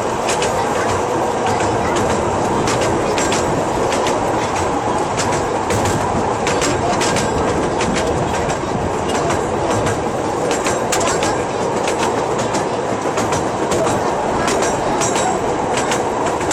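Train running along the rails: a steady rumble throughout, with frequent irregular clicks and rattles from the wheels and track.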